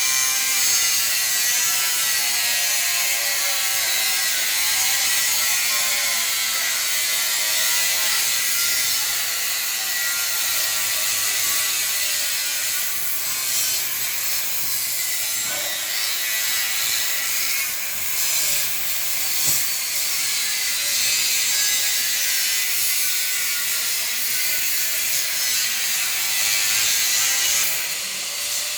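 Grinder cutting into 2 mm steel plate: a steady, harsh grinding hiss with a motor whine that wavers in pitch as the disc is pressed into the metal, easing briefly a few times.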